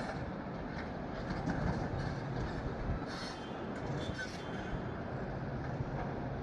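Diesel engine of compact construction machinery running steadily, with scattered metallic clanks and a brief squeal around the middle.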